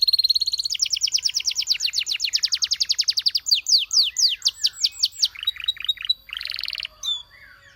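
Domestic canary singing: a held high note, then a long fast trill of repeated falling notes, a run of slower sweeping notes, another quick trill and a short buzzy note. The song stops near the end.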